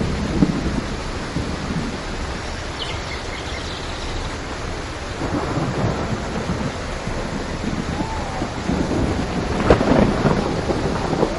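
Steady rain with low rolling thunder, swelling into a louder crack of thunder near the end.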